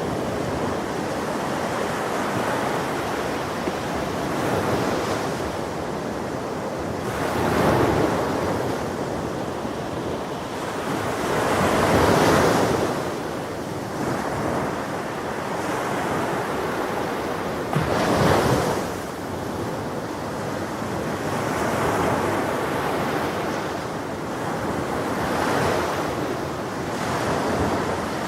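Ocean waves breaking on a shore in a continuous wash of surf. Louder waves crash about every few seconds, the biggest near the middle, with a little wind on the microphone.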